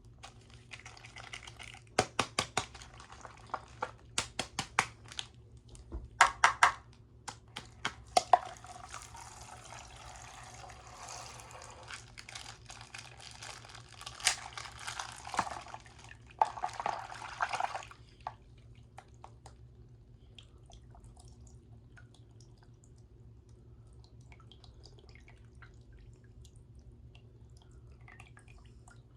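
Plastic bags of coloured liquid being broken open: a run of sharp crackles and clicks from the plastic, then liquid pouring, splashing and dripping for about ten seconds. The liquid stops about eighteen seconds in, leaving only faint ticks.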